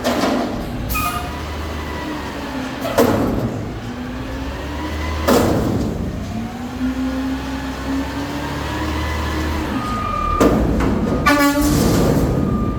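Garbage truck engine running, its pitch rising and falling as it works, with several sharp metallic bangs and a brief rattle near the end.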